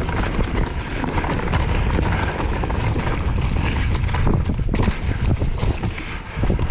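Wind buffeting the microphone over a mountain bike riding a rough trail: continuous tyre and trail rumble with frequent small knocks and rattles from the bike.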